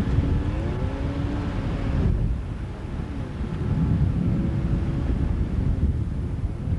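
Outboard motor running, its pitch rising and falling as the throttle or load changes, over a heavy low rumble.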